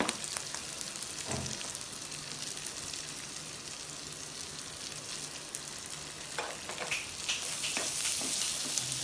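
Chopped onion, garlic and chillies sizzling in butter in a pan, with a few stirring strokes, the sizzle a little louder near the end.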